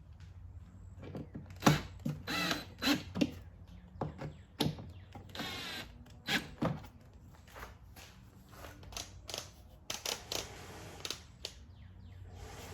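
Scattered clicks and knocks of plastic engine-bay parts and fasteners being handled and fitted while the air filter housing is put back together.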